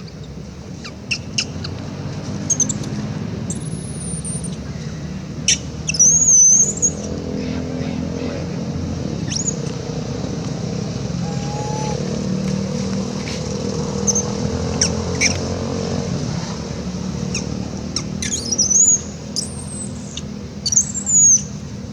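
Young macaque giving repeated short, high-pitched squealing cries, the loudest about six seconds in and twice near the end, over the steady low engine noise of nearby road traffic.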